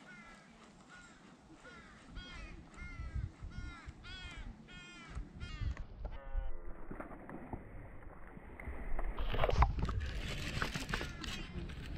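A bird calls a long, even series of notes, about two a second, each note rising and falling in pitch; the calls stop about halfway through. Then come rubbing and a few sharp knocks close to the microphone, loudest near the end, as the sleeved arm brushes past the camera.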